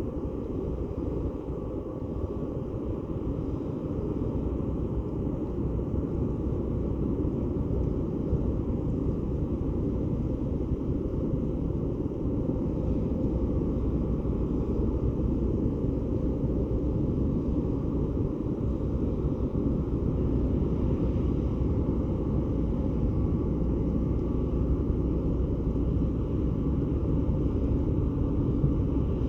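Low, steady rumble of the ferry Taiko's engines as it comes into port, slowly growing louder, with a faint steady hum above it.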